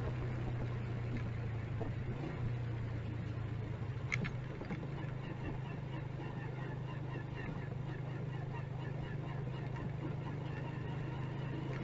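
Motorcycle engine running at a steady, low speed, with city traffic around it. A brief sharp sound about four seconds in.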